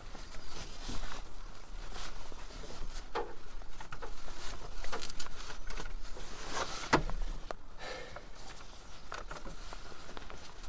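Scattered light clicks, knocks and rustles of tools and parts being handled during car repair work, with one sharper knock about seven seconds in.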